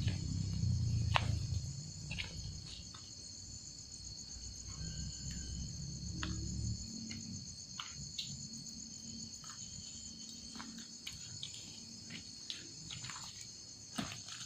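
Crickets chirring steadily in a high, finely pulsing drone. A low rumble fills about the first half and stops, and scattered short clicks sound throughout.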